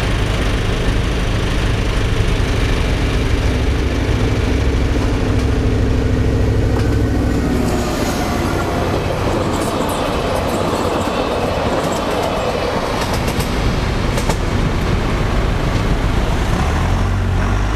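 Locomotive-hauled train passing close by. A steady engine drone for about the first eight seconds gives way to a rush of wheel and rail noise with rapid clicks of wheels over the rail joints. A low engine hum returns near the end.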